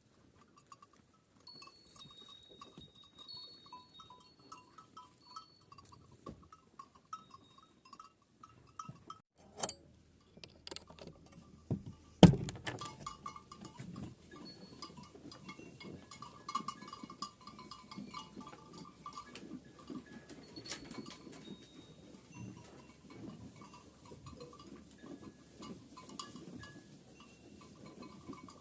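Bells on a flock of Kangal sheep clinking and ringing on and off. A sharp knock about twelve seconds in is the loudest sound.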